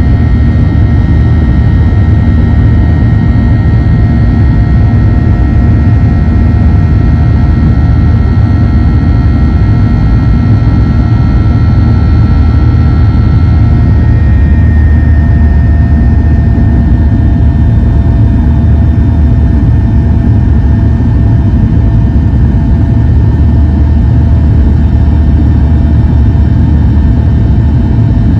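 Boeing 737 airliner's jet engines heard from inside the cabin during takeoff: a loud, steady rumble with several whining fan tones over it. About halfway through, the highest whine stops and another tone shifts slightly in pitch.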